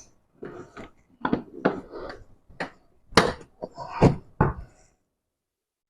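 Irregular knocks and taps, about a dozen, from handling and seating the geyser's metal outer cover while refitting it; they stop abruptly about five seconds in.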